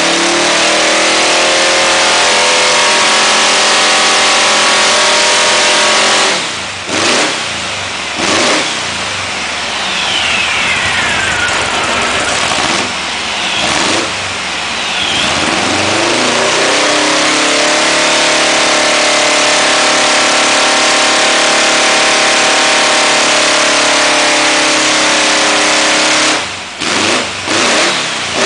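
1914 cc dune buggy engine being run hard on a dynamometer. It holds high revs for several seconds, drops back with a couple of quick throttle blips, then makes a second long high-rev pull and drops back again with more blips near the end.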